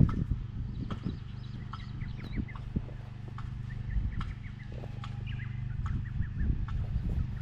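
A machine engine running steadily with a low hum, with scattered knocks from the machinery and birds chirping and calling over it.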